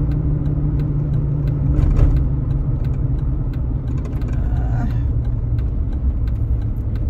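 Steady low rumble with a hum, like an idling vehicle engine heard from close by, with scattered light clicks over it.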